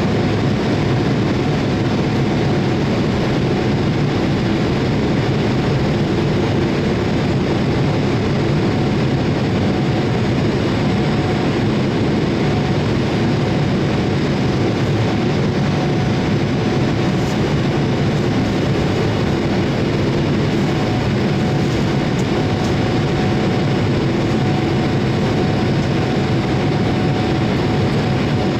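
Steady, unchanging noise from an ANA Boeing 787-8 with Rolls-Royce engines, jet engine and airflow together, with a faint steady whine.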